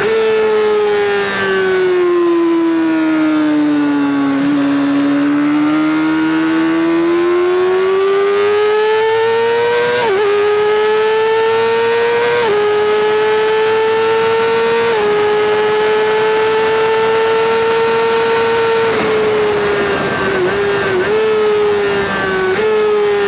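Honda CBR600RR inline-four at high revs through a Leovince SBK titanium exhaust on a hard lap. The revs fall off around four to five seconds in, climb steadily back up, then hold high with three brief stutters in pitch and drop again near the end.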